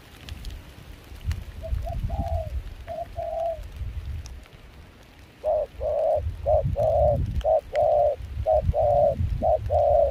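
Spotted dove cooing: a short phrase of a few notes about two seconds in, then from about halfway a long run of repeated coos. Wind rumbles on the microphone underneath.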